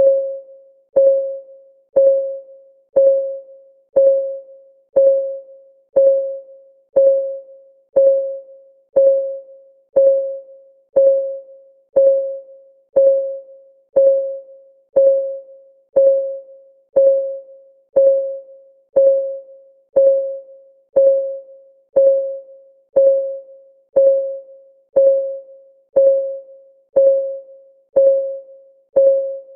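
Clock ticking sound of a countdown timer: one tick each second, steady and even, each a sharp click with a short ringing tone that fades before the next.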